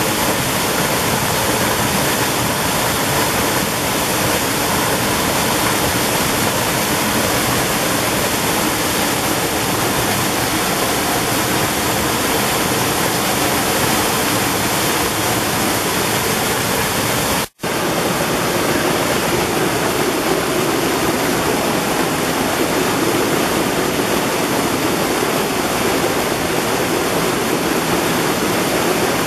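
Mountain valley stream, its water running steadily over rocks in an even, unbroken rush. The sound cuts out for an instant a little past halfway and resumes slightly fuller and deeper.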